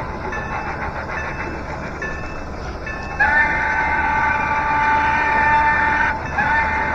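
Model N&W 475 steam locomotive running, then its whistle sounding a long steady chord of several tones about three seconds in, breaking briefly and starting a second blast near the end.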